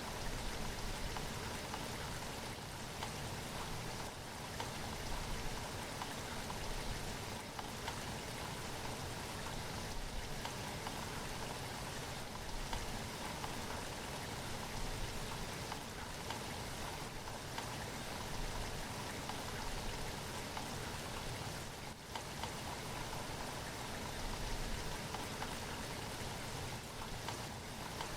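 Steady rainfall, a dense, even patter of raindrops with no pauses.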